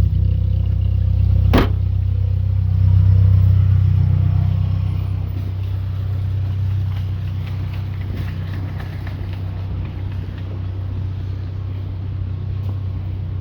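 A car's trunk lid slams shut once about a second and a half in, over the steady low hum of a car engine idling, which slowly grows fainter.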